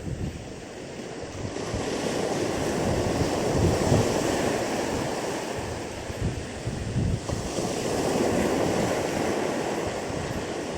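Sea waves washing onto a rocky shore, swelling twice, with strong wind buffeting the microphone.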